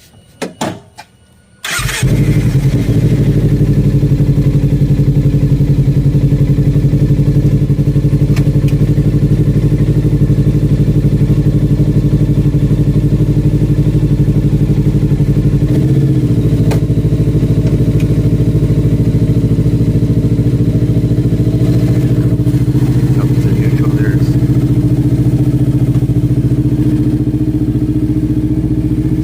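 Kawasaki Ninja 300's parallel-twin engine cold-starting: a few short sounds of cranking, then it catches about two seconds in and settles into a steady idle. About halfway through, the idle note drops a little.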